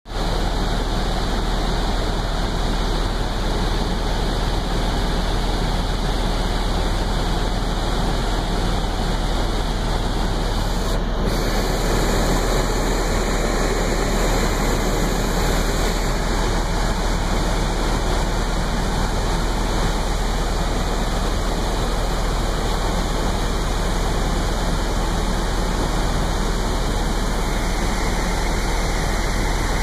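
Helicopter in flight heard from inside the cabin: the engine and rotor make a loud, steady rush of noise over a deep low rumble.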